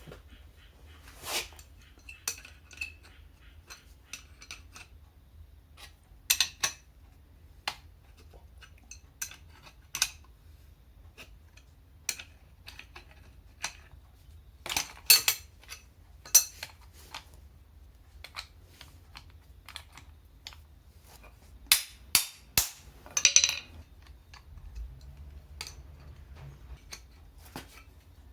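Metal hand tools and metal parts clinking and clicking at an irregular pace as they are handled, with a few sharper knocks around the middle and a cluster of louder ones near the end.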